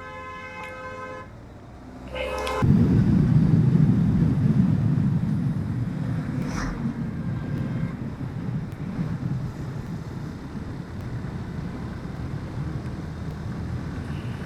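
A vehicle horn sounds at the start, with a second short blast about two seconds in. Then a low, steady road rumble of the moving vehicle in traffic takes over.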